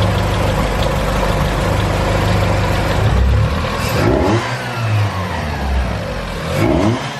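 Mitsubishi 2.4-litre 4G64 four-cylinder engine in a third-generation Eclipse running steadily, then revved up in short blips at about four seconds and near the end. It is running as it should after a new fuel pressure regulator was fitted, with no fuel leaks.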